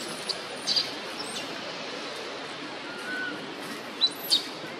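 Birds chirping over a steady background hiss: a few short, high chirps, a brief whistle, and two sharp sweeping whistles about four seconds in.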